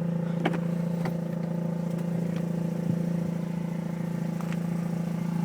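2004 Mazda RX-8's Renesis rotary engine idling with a steady, even hum, and a few faint small knocks.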